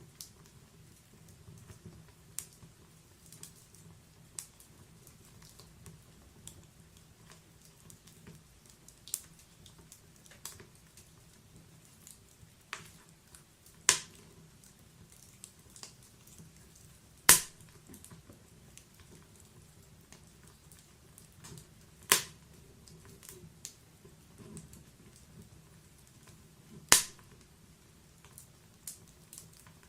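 Wood fire in a fireplace crackling: irregular sharp pops and snaps of burning logs, four louder pops standing out about every four to five seconds from the middle on, over a faint low rushing of the flames.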